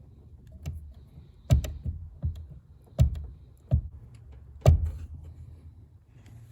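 Clutch pedal of a Suzuki HA36V Alto Van worked down and up several times, giving about six sharp knocks spread over three seconds, the loudest about one and a half, three and nearly five seconds in.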